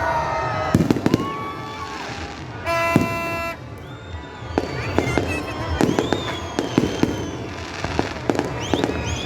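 Aerial fireworks going off: a string of sharp bangs and crackles, about ten in all, mixed with gliding whistle-like tones. A steady horn-like tone sounds for just under a second about three seconds in.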